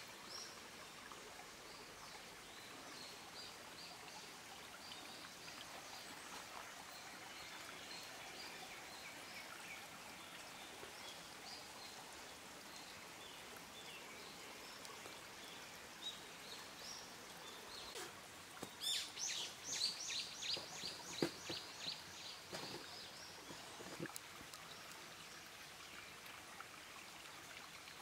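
Mountain stream running steadily, with birds chirping over it; about two-thirds of the way in a bird gives a run of evenly repeated high notes.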